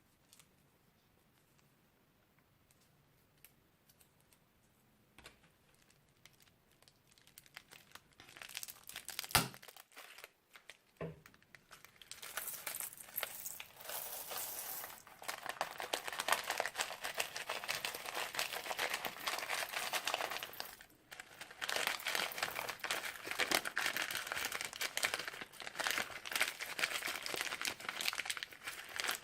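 Crunchy slime squeezed and worked in a plastic piping bag, making a dense crackling and crinkling. Quiet at first, with two sharp knocks before the crackling starts about twelve seconds in, pausing briefly once.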